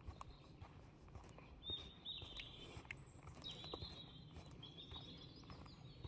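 Faint birdsong: three short, high chirping phrases starting about two seconds in, over a soft outdoor hiss, with a few light footsteps on a sandy forest path.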